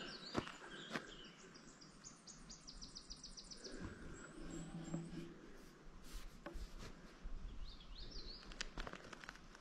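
A songbird singing a quick run of high, evenly repeated notes for about two seconds, starting a second and a half in, with a few short chirps near the end. A few soft footfalls on the trail click here and there.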